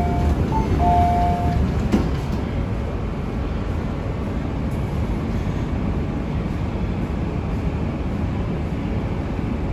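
MTR Kwun Tong Line C-train running, a steady low rumble of wheels and traction gear. A two-tone chime sounds twice in the first second and a half, and a single click comes about two seconds in.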